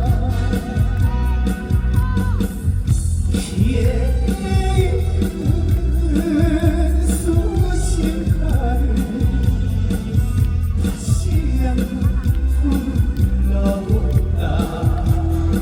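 A man singing a Korean trot song live over loud amplified backing music with a heavy, steady beat.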